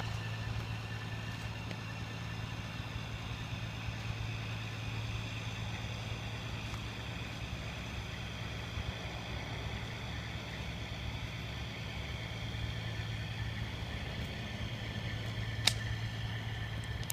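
An engine idling steadily with a low, even hum. There is a single sharp click near the end.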